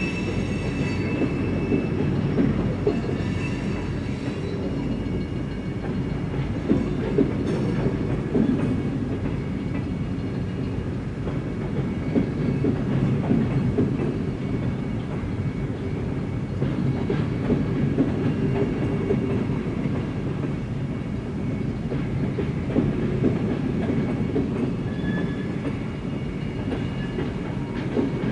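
Freight train of covered hopper and tank cars rolling past: a steady rumble of steel wheels on the rails with irregular clicking and clanking from the wheels and couplers.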